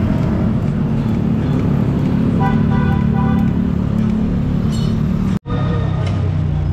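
Street traffic: vehicle engines running steadily in a low rumble, with a brief horn-like pitched sound about two and a half seconds in. The sound cuts off abruptly for a moment near the end.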